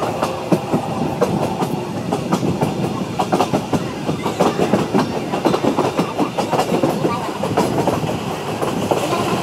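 Passenger train running, heard from an open coach door: the wheels clatter over the rail joints with a steady rumble and many quick, irregular clicks and rattles.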